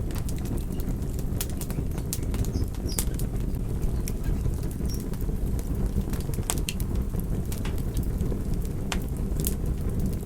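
Wood fire burning: a steady low rush of flames with sharp, irregular crackles and pops from the burning wood.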